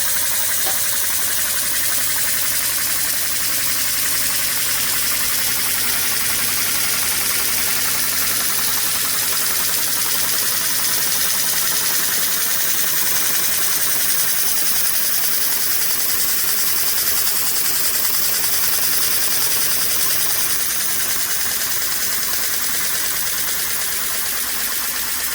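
Small homemade vee twin model air engine with cam-operated D-valves running fast on compressed air: a steady, rapid hissing chatter of exhaust puffs.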